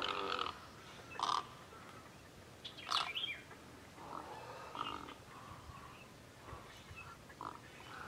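Scattered short calls from a mixed flock of wading birds, mostly great egrets, resting together in a mangrove wetland. There are several calls, one after another, the loudest about three seconds in.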